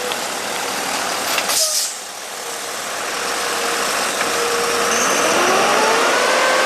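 Motor vehicle engine running amid steady noise, rising steadily in pitch over the last four seconds as it revs up.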